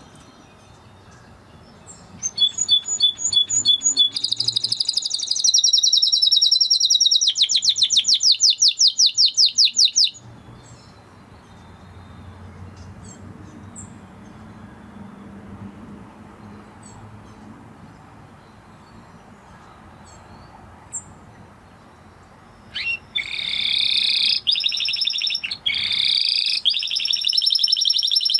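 Spanish Timbrado canary singing: about eight seconds of fast trills and rapidly repeated high notes, then a long pause, then another song phrase starting near the end.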